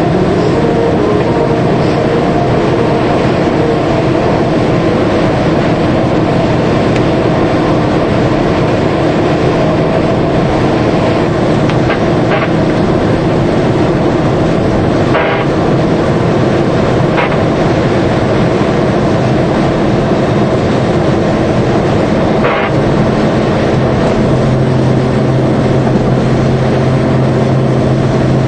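Steady engine and road noise of a DAF 75 truck on the move, with a few short knocks. A lower engine tone comes in near the end.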